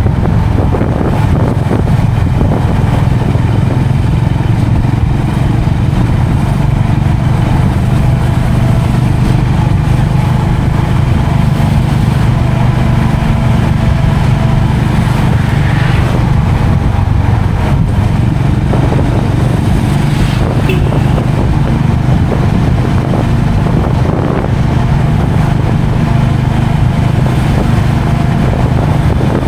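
Motorcycle running steadily on the road, a loud, even engine drone with no revving up or down.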